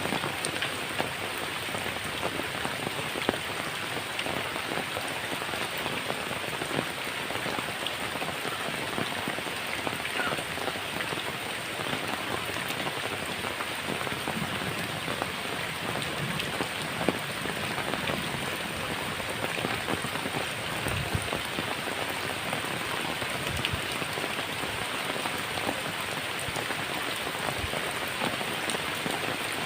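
Heavy rain falling on a tin roof: a dense, steady patter with a few louder single drop strikes.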